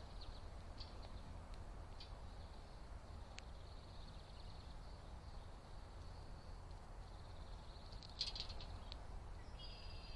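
Small birds chirping faintly over a steady low rumble: scattered short chirps, a quick cluster of louder chirps about eight seconds in, and a brief call near the end.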